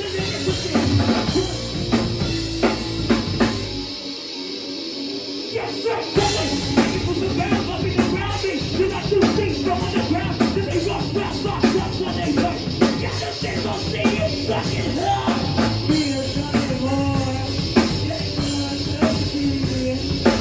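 Live rock band playing loud, heavy music: drum kit, guitar and bass. About four seconds in, the low end drops out for roughly two seconds, then the full band comes back in.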